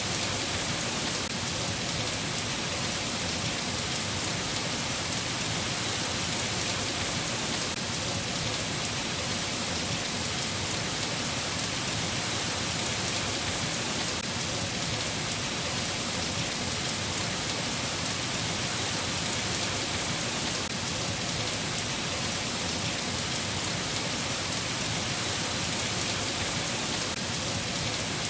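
Steady rain falling, an even hiss with no change in level and no distinct thunderclaps.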